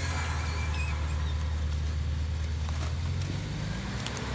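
Off-road vehicle engine running with a steady low drone; its note shifts slightly about three seconds in.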